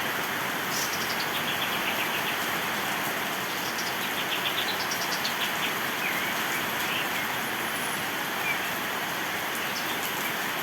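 Pied triller (kapas tembak) singing: several rapid high trills of quick notes that fall in pitch, with a few short chirps, over a steady hiss of rain.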